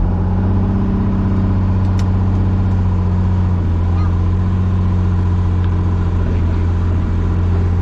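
Helicopter engine and rotor running steadily in flight: an even, loud drone with a strong low hum that does not change.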